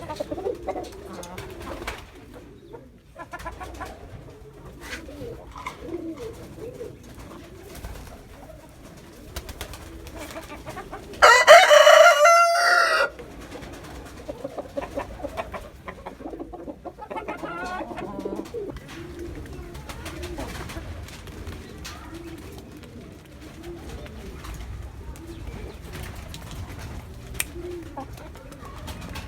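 Pigeons cooing and chickens clucking, with a rooster crowing once, loud, about eleven seconds in, its call falling in pitch at the end.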